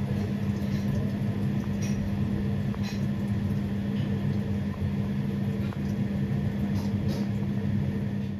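Steady engine drone with a strong low hum over a rumble.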